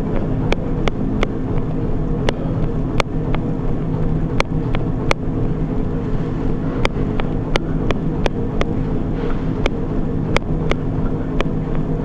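Running footfalls striking a treadmill deck in an even rhythm, about three a second, over a steady machine hum.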